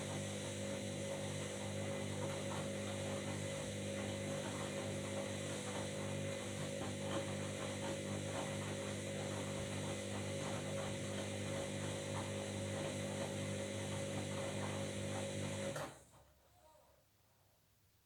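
Washing machine running with a steady motor hum and faint irregular ticking or sloshing. The sound cuts off abruptly about sixteen seconds in.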